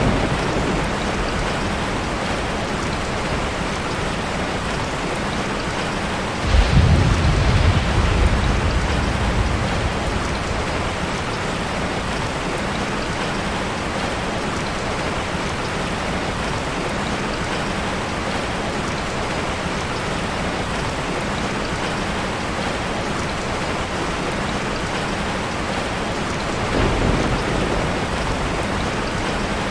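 Steady heavy rain falling. A loud roll of thunder breaks in suddenly about six seconds in and dies away over a few seconds, and a fainter rumble of thunder comes near the end.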